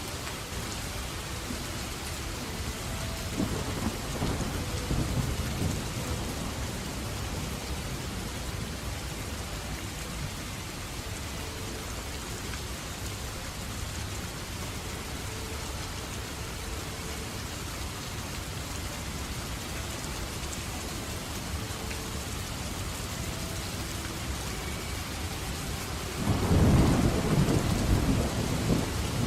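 Steady rain with rolling thunder. A low rumble of thunder swells about three seconds in and dies away, and a louder peal of thunder breaks in near the end.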